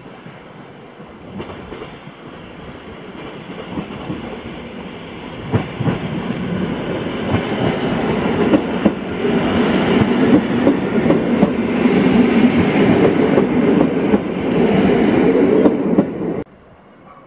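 EN57 electric multiple unit approaching and running past, its wheels clattering over the rail joints and growing steadily louder. The sound cuts off suddenly near the end.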